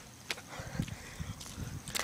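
A few faint, short knocks, one about a third of a second in, one near the middle and one near the end.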